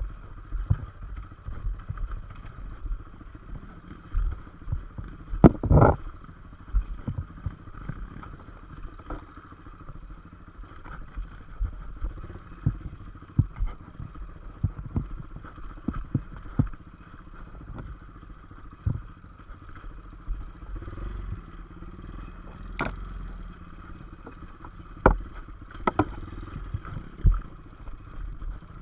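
Motorcycle riding, its engine running under a steady background noise, with frequent short knocks and clatter throughout and a few sharp, louder bangs.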